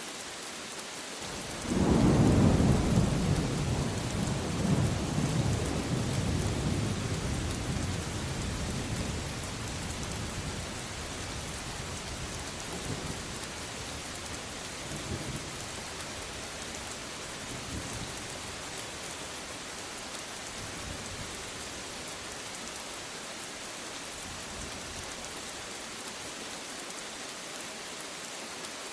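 Steady rain with a thunderclap about two seconds in, its low rumble rolling and slowly dying away over the next ten seconds or so, with a few fainter rumbles after it.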